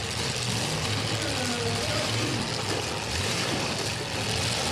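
Engines of eight-cylinder demolition derby cars running and revving in a steady, loud din.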